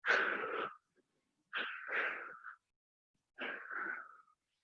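A woman breathing hard through a dumbbell set: three forceful exhales, one about every second and a half.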